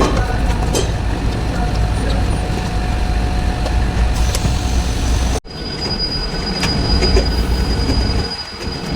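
Diesel truck engine running with a deep steady rumble and a faint thin whine over it. The sound cuts off abruptly about halfway through and resumes at once.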